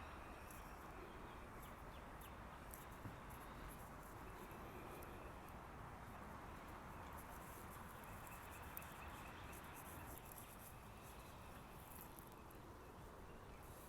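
Faint outdoor background hush with scattered soft high ticks and faint, thin distant animal calls.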